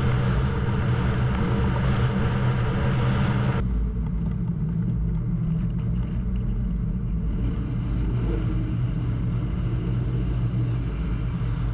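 Crew transfer boat's engine running steadily with a low hum, under a hiss of wind and water that cuts off suddenly about a third of the way in, leaving mostly the engine's deep rumble.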